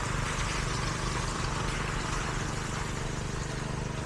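Heavy construction machinery engine running steadily, a constant low engine hum under a steady rushing noise.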